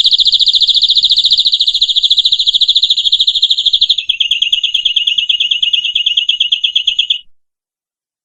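Domestic canary singing one long, very fast trill of rapidly repeated high notes; about four seconds in it shifts to a slightly lower, more clearly pulsed trill, and it stops about seven seconds in.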